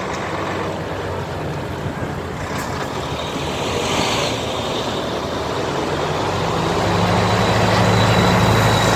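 Heavy vehicle engines going past, a low steady drone that grows louder from about six seconds in as one draws near. A short hiss swells and fades around the middle.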